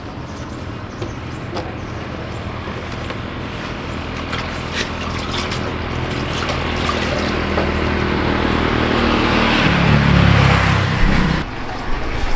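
A motor running steadily with a low hum, growing louder, with scattered clicks and rattles. It goes loudest near the end, then drops off suddenly.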